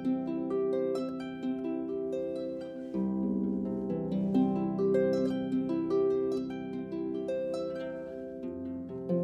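Solo harp playing: a steady stream of plucked notes ringing over held bass notes, the bass shifting about three seconds in and again near the end.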